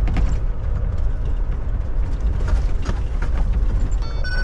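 Semi truck's diesel engine rumbling at low speed, with clicks and rattles from the cab. Near the end a reversing alarm beeps twice.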